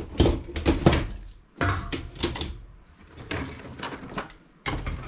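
Clattering and knocking of tools and metal parts being moved around while rummaging on a workbench: a run of irregular sharp knocks, loudest in the first second and again near the end.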